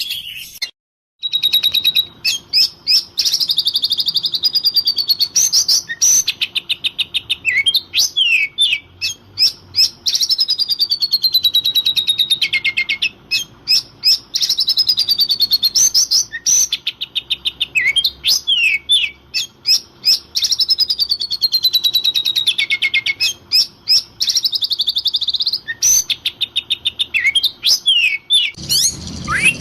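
Oriental magpie-robin (kacer) singing loudly and without pause in fired-up song: rapid rattling phrases alternating with clear whistles that slide down in pitch. The song breaks off briefly about a second in, then runs on.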